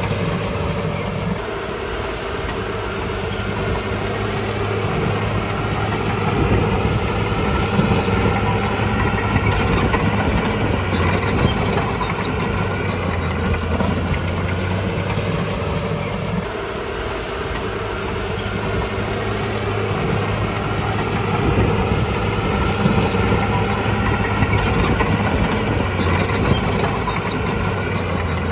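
Bulldozer's diesel engine running under varying load, its level swelling and easing every several seconds.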